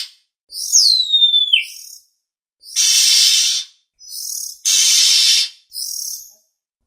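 Oriental magpie-robin (kacer) song played as a lure call: a clear whistle sliding downward, then two long harsh rasping notes alternating with shorter chirps.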